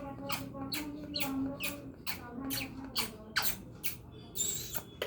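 Pet parrot calling in a rapid series of short, harsh squawks, about three a second.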